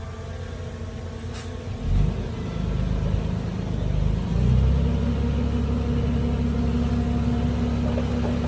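Heavy diesel engine of earthmoving machinery running, its revs picking up about two seconds in and again near halfway, then holding steady.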